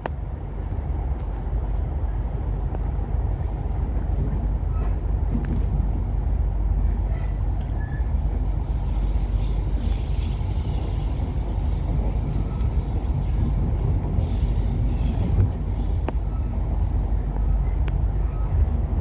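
Passenger train running along the track, heard from inside the carriage: a steady low rumble of wheels and running gear with a few faint clicks.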